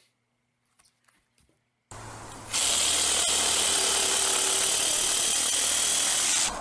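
A machine starts with a low hum, then runs loudly with a harsh, hissing noise and steady high whine for about four seconds before cutting off suddenly.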